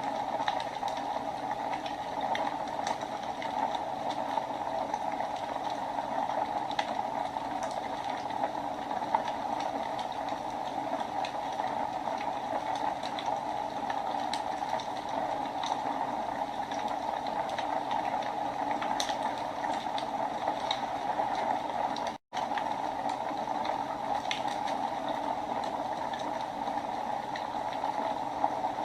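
Wood fire burning in a fireplace: a steady hiss with scattered sharp crackles and pops. The sound cuts out for an instant about three-quarters of the way through.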